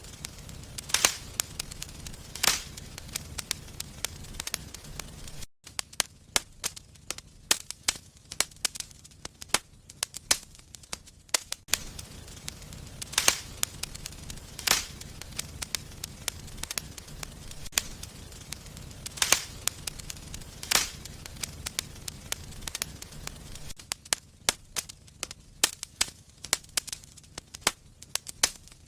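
Wood fire burning in a fireplace, crackling steadily with irregular sharp pops of the burning wood, some much louder than the rest, over a low rumble from the flames.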